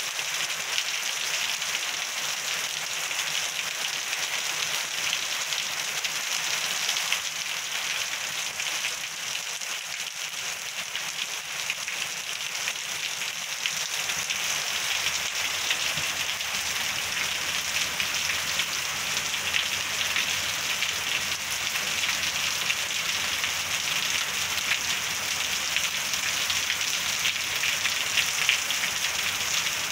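Heavy rain pouring down steadily through tall pine trees: a dense, even hiss with fine pattering of drops, growing a little heavier in the second half.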